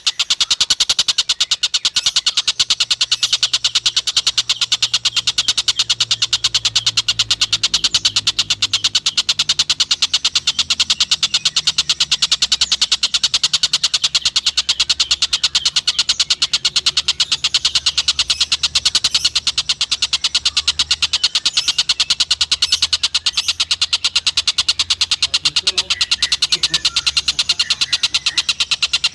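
Recorded call of a tengkek buto (stork-billed kingfisher): a rapid, even, high-pitched chatter of about ten notes a second, kept up without a break.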